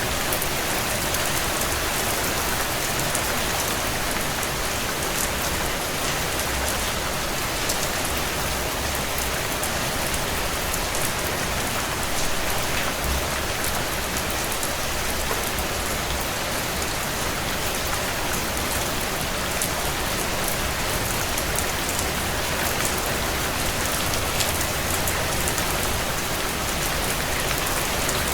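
Heavy rain drumming on a tin roof: a steady, even hiss with dense, fast ticking of drops striking the metal.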